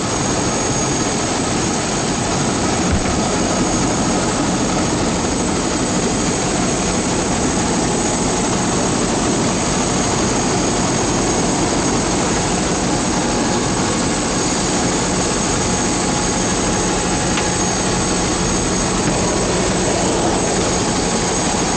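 Helicopter turbine engine and rotor running steadily during takeoff, a constant loud din with a thin high whine over it.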